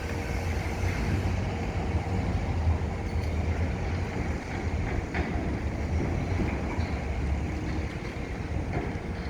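Steady low rumble of distant city traffic and construction machinery, with a few faint clicks and knocks.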